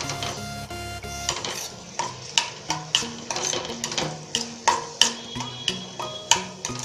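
A spoon stirring onions in a stainless-steel kadhai, knocking and scraping against the pan in quick clinks about three a second, over background music.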